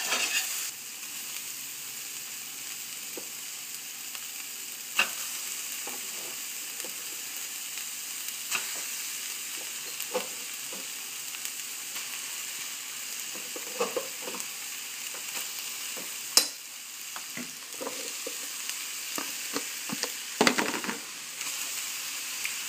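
Diced onions and mushrooms sizzling in a stainless steel frying pan, cooked without oil in their own moisture, a steady hiss. Scattered knocks and scrapes from stirring and adding ingredients, the sharpest about 16 seconds in.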